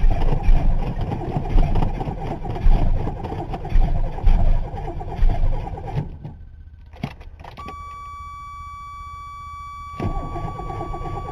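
1985 Chevy S10's carbureted 2.8-litre V6 cranking on the starter without catching, a cold no-start that the owner puts down to not getting very good spark. The cranking stops about six seconds in, with a click and then a steady high beep, and starts again near the end.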